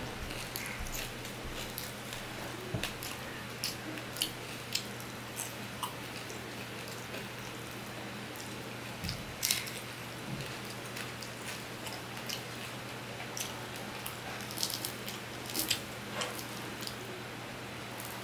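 A man eating rice and fish with his fingers: scattered chewing and mouth clicks and smacks at irregular intervals, over a steady low hum.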